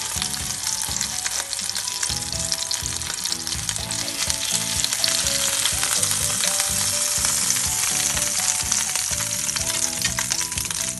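Beef hamburger patties sizzling in hot oil in a frying pan, a steady crackling hiss.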